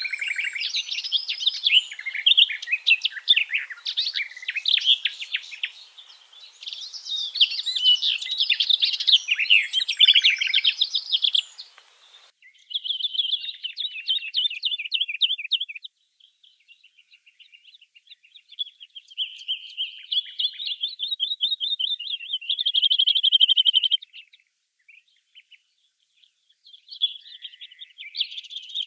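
Small songbirds singing: dense overlapping high chattering songs for about twelve seconds, then an abrupt change to rapid repeated trills with short pauses between phrases.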